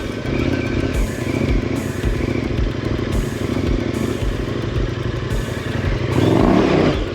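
KTM 1090 Adventure R's 1,050 cc LC8 V-twin engine running at low revs as the bike rolls slowly over rough trail, with the revs rising briefly about six seconds in.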